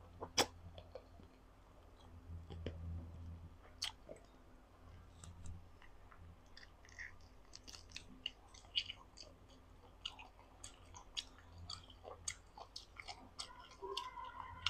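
Close-miked mouth sounds of someone eating boiled chicken: chewing with many short wet smacks and clicks, heaviest in the second half.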